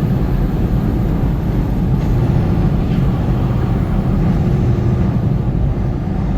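Semi truck on the move: a steady, loud engine drone with road noise, strongest in the low rumble.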